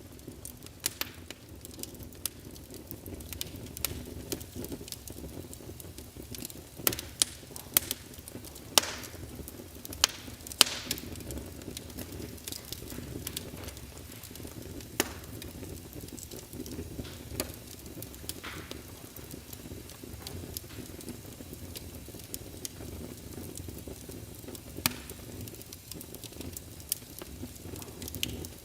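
Wood fire crackling in a fireplace: a steady low rumble of flames with irregular sharp pops and snaps, which come thickest about a third of the way in.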